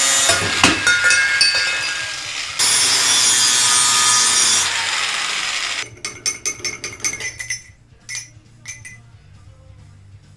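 A power tool cutting through 304 stainless steel exhaust pipe: a loud, steady cutting noise that dips briefly about two seconds in, resumes, and stops about six seconds in. A few light metallic clicks and clinks follow.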